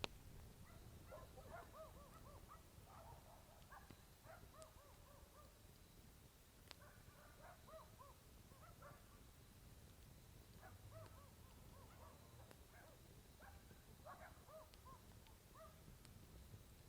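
Faint groups of quick, repeated chirping calls from a night animal, coming in short runs every few seconds, over a low rumble. A few sharp crackles from the campfire.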